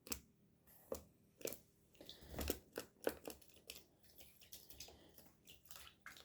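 A small pet bird bathing in water: faint, irregular little splashes and patters.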